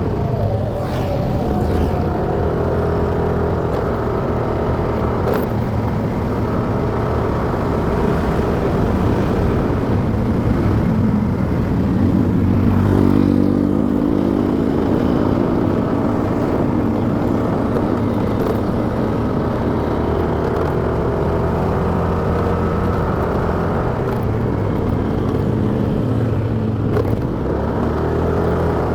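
Motorcycle engine running under way, its pitch shifting up and down as the speed changes, with a rise in revs about twelve seconds in.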